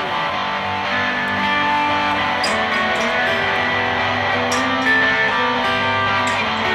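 Electric guitar instrumental break of a slow song: Gibson Les Paul guitars through a Yamaha THR5 practice amp, with strummed chords under held single notes, recorded on a phone's built-in mic.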